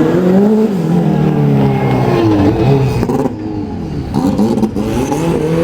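Classic rally car engine revving hard as it is driven past, the pitch rising and falling several times with throttle and gear changes, with a short drop just past halfway.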